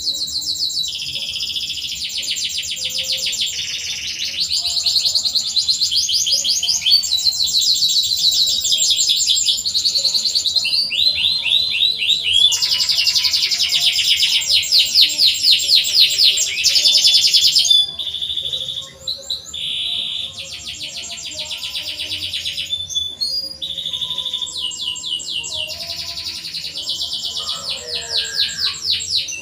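Domestic canary singing: long strings of rapid trills, each phrase lasting a second or a few seconds and then switching to a new pitch. The song eases somewhat after about eighteen seconds, then picks up again.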